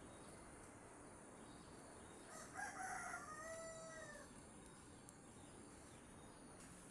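A rooster crows once, about two and a half seconds in, in a call of under two seconds that falls away at the end. Behind it is a faint steady hiss with a thin high insect whine.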